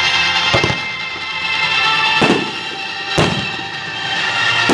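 Music with held tones plays over aerial fireworks, with sharp firework bangs about half a second, two seconds and three seconds in, and another at the end.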